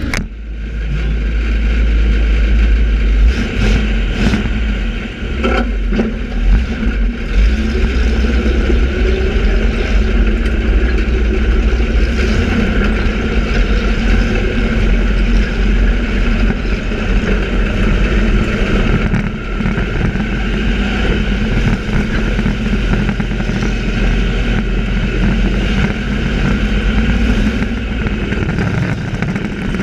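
Racing trucks' engines running loud and steady through the heat race, with a heavy low rumble.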